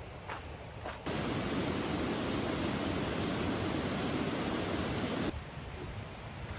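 Waterfall rushing: a steady, even hiss of falling water. It starts abruptly about a second in and cuts off suddenly about four seconds later.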